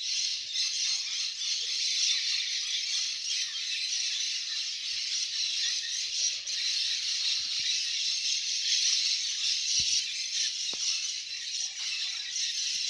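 A large flock of parrots calling all at once: a dense, steady chorus of overlapping high squawks and screeches with no break.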